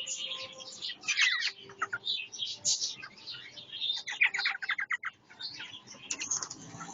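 Parrots calling and chattering at each other in a squabble, with dense overlapping high calls and a fast run of short notes around four seconds in.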